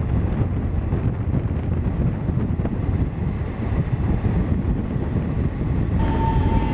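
Wind buffeting the microphone over the steady rumble of a moving passenger train, heard from an open coach door. Near the end the sound changes abruptly and a steady high tone comes in.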